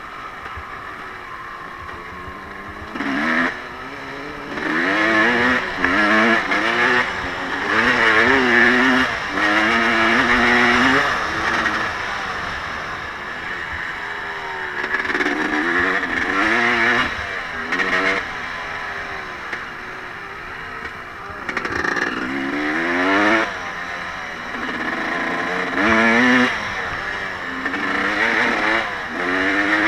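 Off-road vehicle engine revving hard and easing off again and again, its pitch rising and falling with each burst of throttle.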